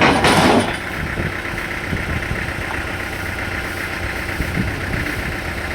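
A machine's engine running steadily at idle, with a short, loud rushing burst in the first half-second.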